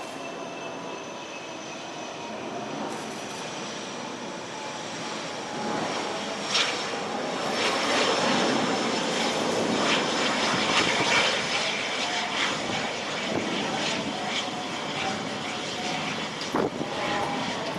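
Cessna Citation CJ1 business jet passing, its twin Williams FJ44 turbofans giving a rushing noise with a high whine that slides slowly down in pitch; the sound swells to its loudest about halfway through and then eases off.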